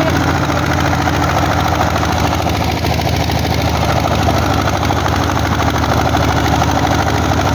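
Single-cylinder diesel engine of a four-wheeled công nông farm tractor chugging steadily with an even, rapid firing beat.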